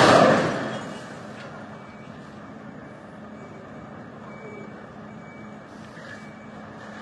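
A loud sudden noise right at the start that dies away over about a second, then a steady rumble of vehicles on a snowy road, with a faint high beeping tone coming and going.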